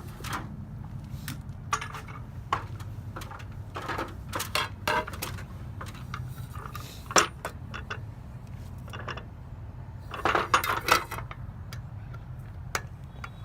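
Metal hardware clinking and clattering in irregular bursts as it is handled, over a steady low hum.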